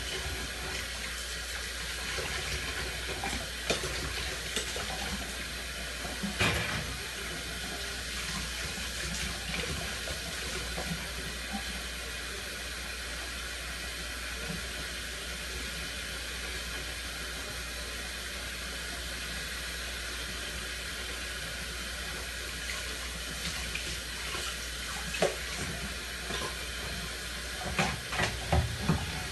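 Tap water running steadily into a sink while dishes are washed by hand, with occasional knocks and clinks of dishware and a quick run of clinks near the end.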